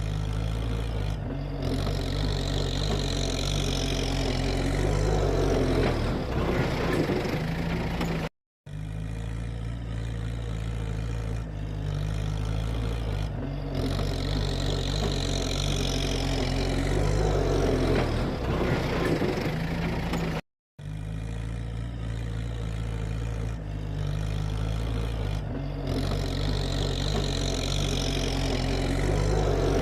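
Tractor engine running and working under varying load, swelling and easing. The same stretch of sound repeats three times, cut by two brief dropouts about 8 and 20 seconds in.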